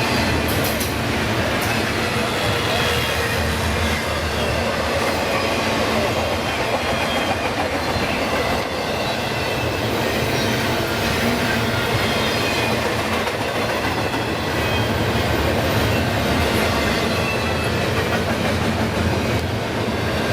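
Freight train rolling past: a steady rumble of wheels on rail, with faint high-pitched squeals over it.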